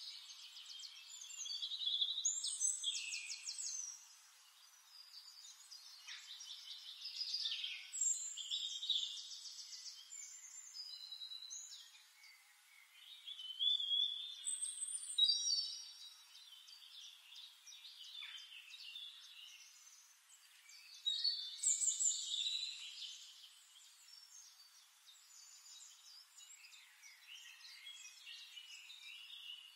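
Birds chirping and twittering in short trilled, gliding phrases, coming in several bursts with quieter gaps between.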